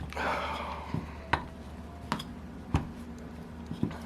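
A short rustle, then about five sharp separate clicks and taps of small metal engine parts and hand tools being handled and set down on a workbench.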